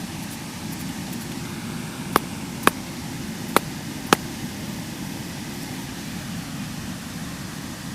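Four sharp knocks with a brief ring, in two pairs about half a second apart, over a steady low rumbling background noise.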